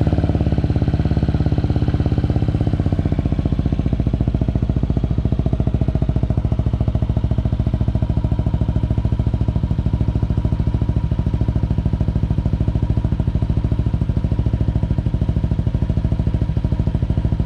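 Yamaha Aerox 155 scooter's single-cylinder engine idling steadily through a Villan SR1 standard-racing aftermarket exhaust, a fast, even pulse.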